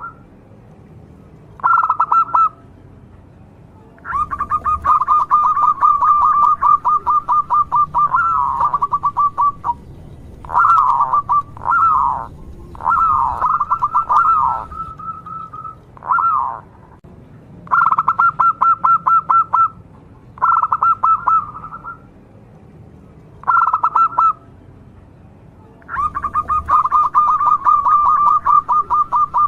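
Zebra dove (perkutut) cooing: repeated runs of rapid, evenly pulsed notes, some brief and others several seconds long, with short pauses between them.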